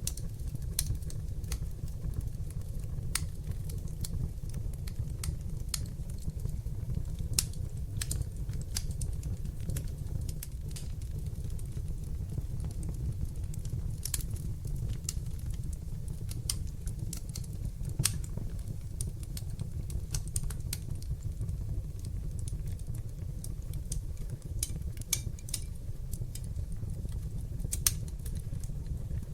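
Wood fire burning in a fireplace: a steady low rumble of flames under irregular sharp crackles and pops.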